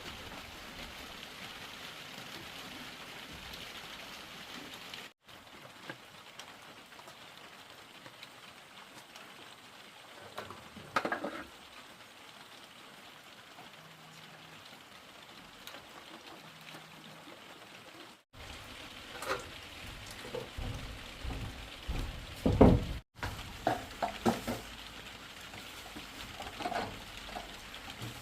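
Steady rain hiss, with a few knocks near the middle and frequent knocks and clatters of handled objects in the second half, the loudest about two-thirds of the way in. The sound cuts out briefly three times.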